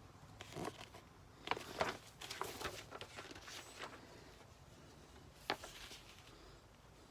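Paper being handled, rustling irregularly with light taps for the first few seconds, then one sharp click about five and a half seconds in.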